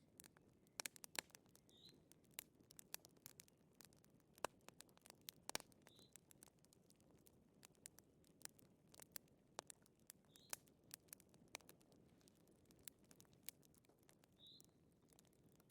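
Wood fire crackling faintly: irregular sharp pops and snaps over a low steady hiss, with a short high chirp every few seconds.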